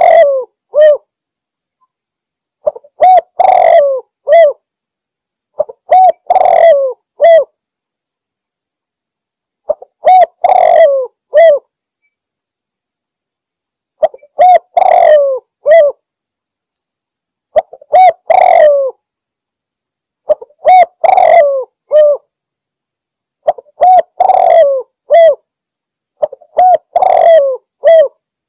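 Spotted dove (tekukur) cooing: a short phrase of a few notes, repeated about nine times every three seconds or so, with silence between phrases.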